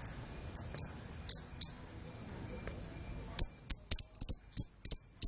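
Canary giving short, high chirps: a few spaced ones, then a faster run of about four or five a second from about three seconds in.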